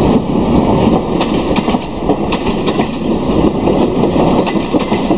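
Passenger train coaches rolling past close by: a steady rumble of steel wheels on rail, with quick clattering clicks as the wheels cross the rail joints.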